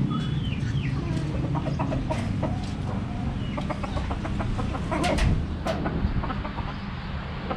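Budgerigars chirping and chattering in short calls, with many small clicks and a steady low hum beneath.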